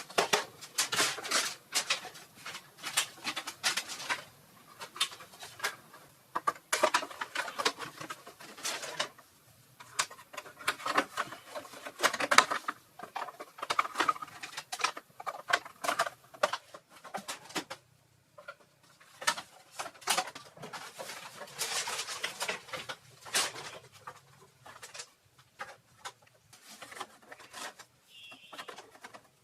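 Irregular clatter of quick taps and knocks in bursts, with short pauses between them, and a brief high chirp near the end.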